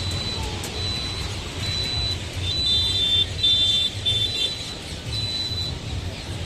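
Road traffic with a low engine rumble, overlaid by a run of short, high electronic beeps that repeat about once a second, several tones at once in the middle of the run.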